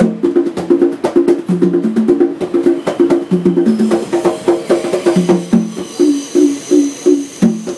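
Conga drums played by hand in a steady, fast groove: low and higher open tones alternating several strokes a second, with sharp slaps between them.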